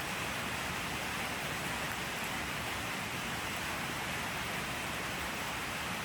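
Steady rain falling, an even continuous hiss with no distinct drops or thunder.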